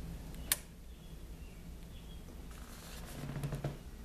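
A lamp switch clicks once, sharply, about half a second in, turning the restored lamp on, followed by faint handling sounds.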